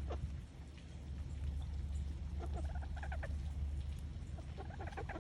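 Chickens clucking softly in a few short runs of calls, over a steady low rumble.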